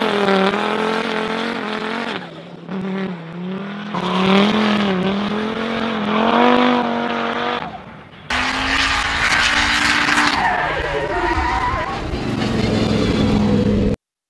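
Audi S1 quattro Group B rally car's turbocharged five-cylinder engine at full race pace, its pitch climbing and falling through repeated revs and gear changes, with brief lifts off the throttle. Tyres skid and squeal through the corners, and the sound cuts off suddenly near the end.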